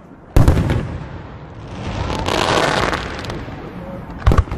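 Aerial fireworks: a loud boom about half a second in, a noisy rush that swells and fades over the next couple of seconds, and another boom near the end.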